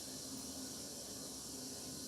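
Indesit MTWC71252WUK washing machine running quietly mid-cycle on its sports program: a faint steady hum with hiss.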